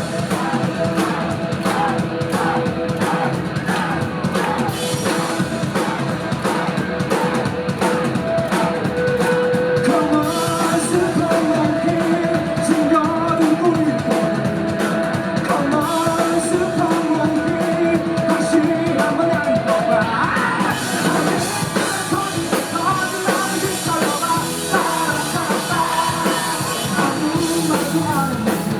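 A rock band playing live, with a drum kit and a lead singer over the band.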